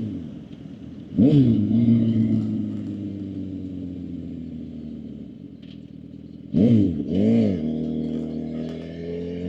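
Suzuki GSX-R750 inline-four engine on the move. The revs fall off, with a sharp throttle blip about a second in and two quick blips close together about seven seconds in, then they climb steadily near the end.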